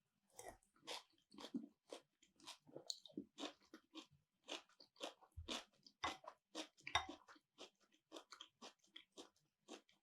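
Close-miked mouth sounds of a person chewing and crunching food, irregular short crunches and clicks a few times a second, with a couple of heavier bites about halfway through.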